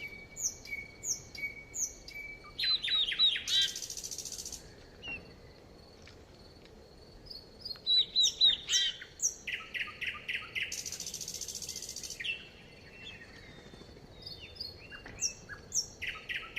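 Several songbirds singing and calling: quick sweeping chirps and fast runs of repeated notes, with a buzzy high trill twice, and a faint steady high tone beneath.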